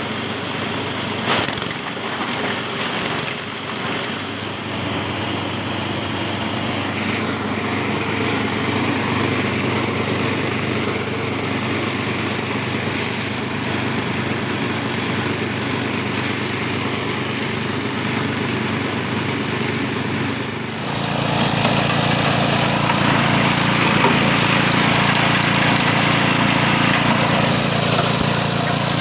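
Small engine driving a grass-chopping machine, running steadily. About 21 seconds in, the sound abruptly becomes louder and fuller and stays that way.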